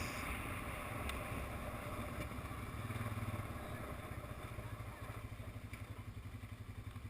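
ATV engine running at low speed, swelling slightly partway through, then settling into an even, pulsing idle in the last couple of seconds.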